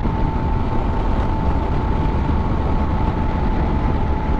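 Motorcycle riding at road speed: steady wind rush on the helmet microphone over the engine's drone, with a thin steady whine.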